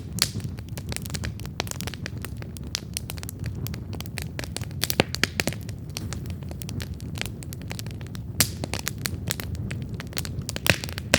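Wood campfire burning, with irregular sharp crackles and pops over a steady low rumble of the flames; a few louder pops stand out, about five seconds in, past eight seconds and near the end.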